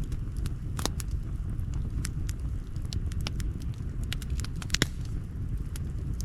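Wood campfire crackling, with irregular sharp pops and snaps over a steady low rumble. The loudest pops come in a quick cluster about five seconds in.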